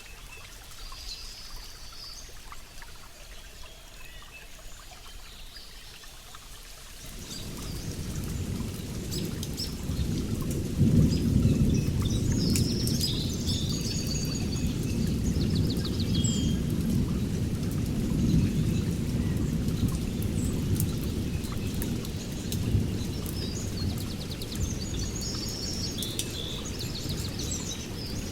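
Songbirds chirping and trilling in short high phrases, joined about seven seconds in by a long low rumble that swells and then stays on under the birdsong.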